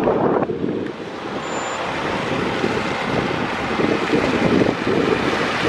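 Steady road-vehicle noise, a rumbling haze of motor and tyre sound, with wind buffeting the microphone.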